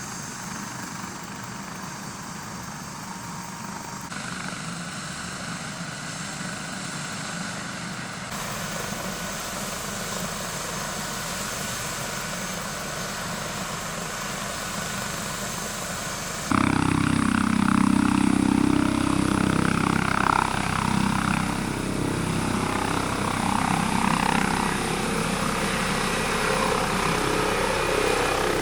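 Medical helicopter running, its rotor and engine noise steady and quieter at first, then much louder from a hard cut about halfway through.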